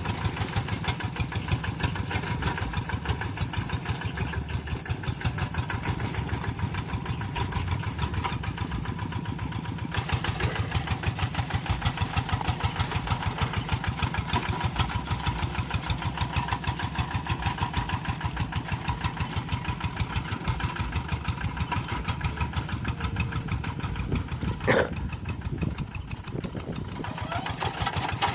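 Tractor engine running steadily with an even, fast pulse, a little louder from about ten seconds in. A brief sharp sound stands out near the end.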